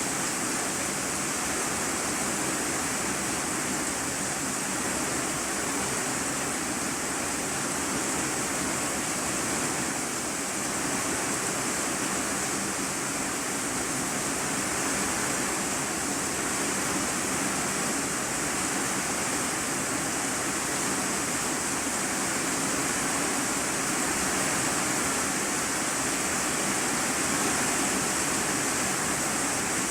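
Heavy rain drumming on an iron-sheet roof, heard from the room beneath it as a dense, steady hiss.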